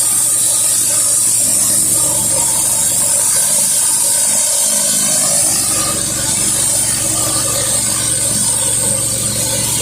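A 4 gallon-per-minute pressure washer running steadily, with a loud, constant high hiss of water jetting from a 16-inch Whisper Wash surface cleaner onto concrete over a steady engine hum.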